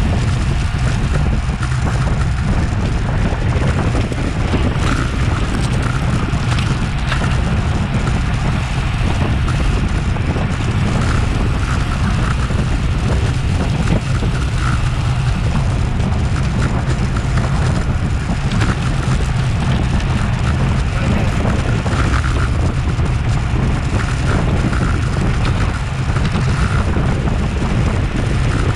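Wind buffeting the microphone of a bike-mounted action camera at racing speed: a loud, steady, low rumble, mixed with the hiss of the bicycle's tyres and drivetrain on the road.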